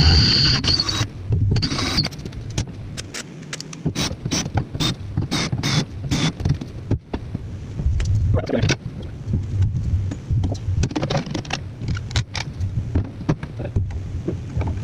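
A run of irregular clicks and knocks over a steady low rumble.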